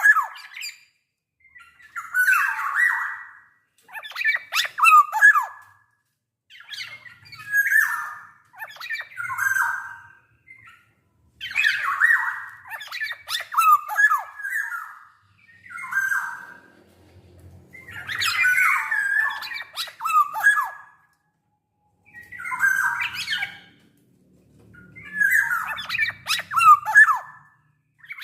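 Black-naped oriole calling in short phrases about every two to three seconds, each mixing slurred whistled notes with rough, scratchy notes.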